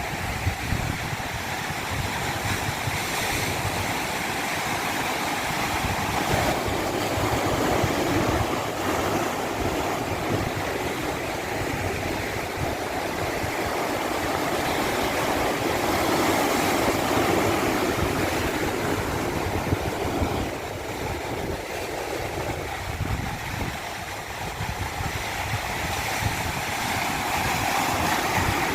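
Rushing water: a steady, full noise that swells and eases every few seconds.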